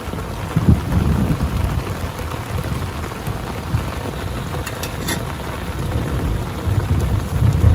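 Heavy rain falling steadily, with low thunder rumbling about half a second in and again building near the end.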